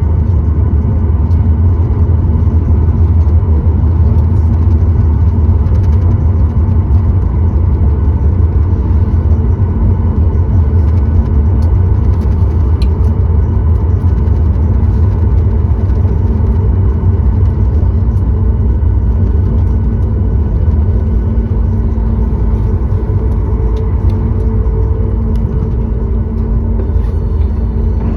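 Steady cabin noise of a Boeing 737-9 MAX in flight: an even, loud rumble of engine and airflow, with a few faint steady tones above it.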